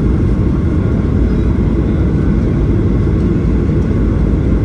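Steady low rumble inside the cabin of a Boeing 737-800 in flight: the sound of its CFM56 engines and the airflow past the fuselage, heard from a window seat on the descent.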